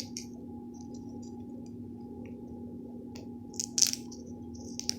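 Garlic cloves being squeezed out of their papery skins after microwaving, a few faint crackling clicks about three and a half seconds in and again near the end, over a steady low electrical hum.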